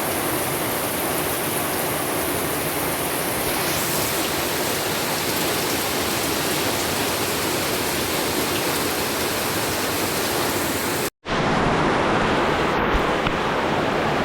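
Heavy rain pouring down in a steady, even hiss. It drops out for an instant about eleven seconds in, then carries on slightly louder.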